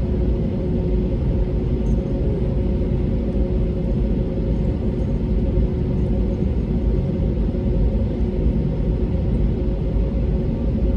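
Steady cabin noise inside an Airbus A320neo: a low rumble from its Pratt & Whitney PW1100G geared turbofans and airflow, with two steady tones running through it.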